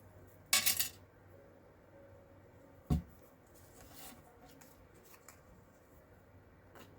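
Pieces of cardstock being handled and pressed together: a brief dry paper rustle about half a second in, a sharp tap on the desk about three seconds in, and a few faint clicks.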